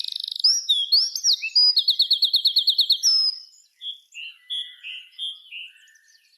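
Songbirds singing: whistled phrases and a fast trill of about ten repeated notes a second, then softer, scattered calls in the second half.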